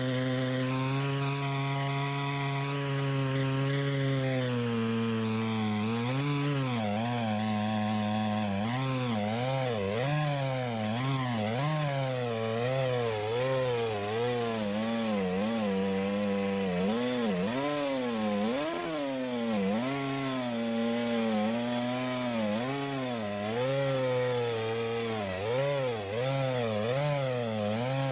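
Chainsaw running in a Granberg Alaskan chainsaw mill, ripping a log lengthwise. It runs at a steady pitch for about five seconds, then keeps dipping and recovering as the chain bogs and frees under the cutting load.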